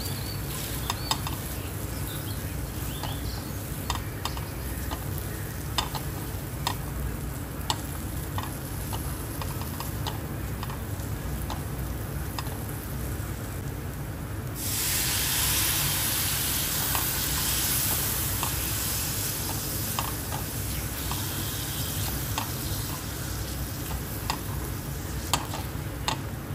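Chicken sizzling as it fries in a pan, with scattered clicks and scrapes of a spatula stirring. About halfway through the sizzling suddenly grows louder and hissier, then slowly dies back down.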